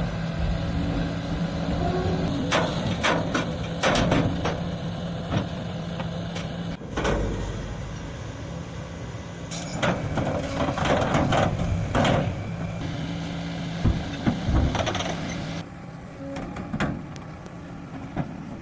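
Hydraulic scrap-metal shear running with a steady low hum, punctuated by repeated sharp metal clanks and bangs as metal is cut and falls.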